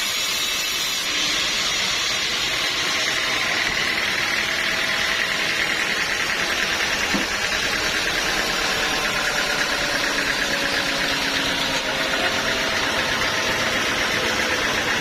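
Sawmill machinery running steadily, a continuous machine noise with a fast, fine rattle in its upper range.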